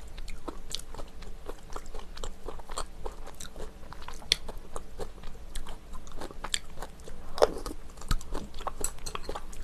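Close-miked eating sounds: chewing with many small, sharp mouth clicks, and the light knock of a spoon against a metal ramen pot as broth is spooned into a small bowl.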